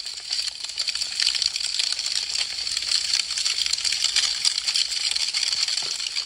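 Wood fire crackling: a dense, unbroken stream of small sharp pops and snaps, swelling up over the first second and then holding steady.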